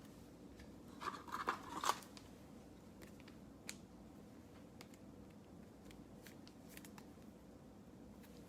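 Trading cards being handled: a short scratchy rustle of cards sliding against each other or against the pack's wrapper about a second in, then a few faint clicks as cards are flipped.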